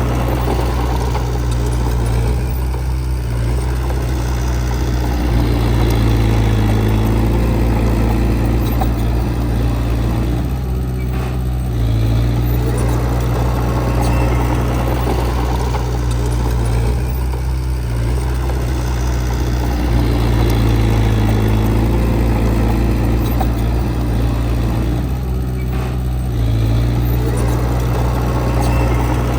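Heavy diesel engine of earthmoving equipment running steadily, its sound swelling and easing in a repeating cycle about every seven or eight seconds as it works.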